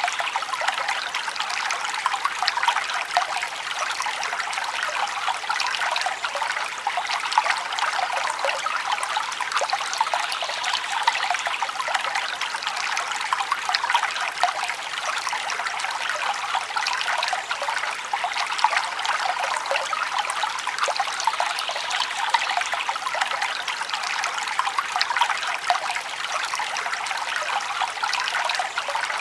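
Forest stream trickling and babbling over stones, a steady splashing rush with many small bright droplet sounds.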